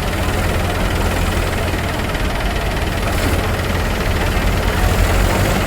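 Tractor engine running steadily under full load: an even, low engine drone with no change in pace.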